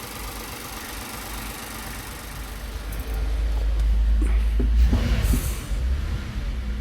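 Toyota Avalon engine running rough and misfiring just after being brought back to life. The low rumble grows louder about three seconds in, with a few sharp clicks. The mechanic puts the misfire down to water left in the injectors and spark plugs.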